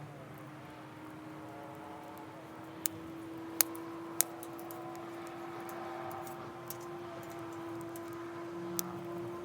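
Wood fire crackling, with a few sharp isolated pops over a steady faint hum.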